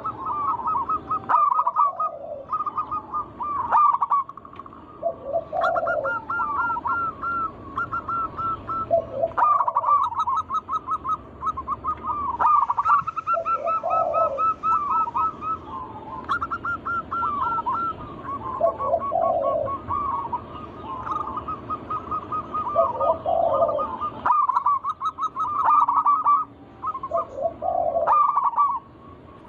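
Zebra doves (perkutut) cooing: quick trilled phrases repeated one after another with only brief pauses, each ending in lower notes.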